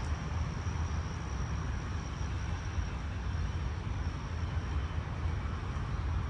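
Steady low rumble of road traffic heard outdoors, with a faint, thin high tone held over it.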